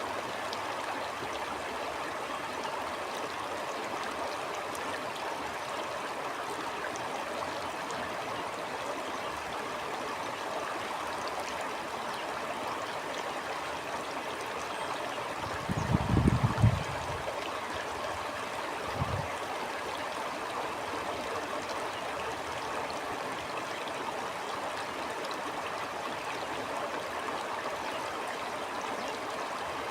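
Stream flowing with a steady rushing and gurgling. A little past halfway a loud, brief low rumble breaks in, and a smaller one follows about three seconds later.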